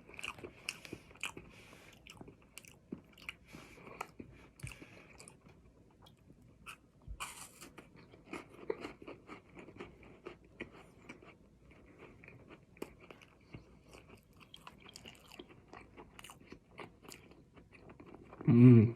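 A person chewing crunchy Nesquik cereal close to the microphone: many small, irregular crunches. A short, loud hum of a voice sounds near the end.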